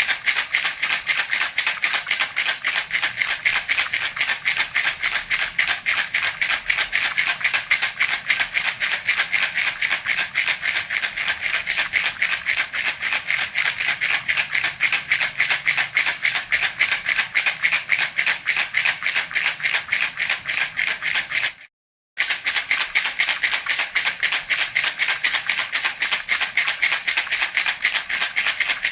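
Baby rattle (jhunjhuna) shaken steadily and fast, a continuous rattling of small beads or pellets inside. It breaks off for about half a second roughly three-quarters of the way through, then carries on the same.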